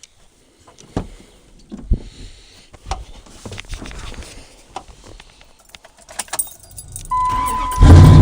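Keys jangling and scattered clicks and knocks, then a steady electronic tone about seven seconds in as the Dodge truck's 318 (5.2 L) V8 is cranked. Near the end it catches on a cold start and runs with a loud, deep exhaust rumble through Flowmaster 40 mufflers.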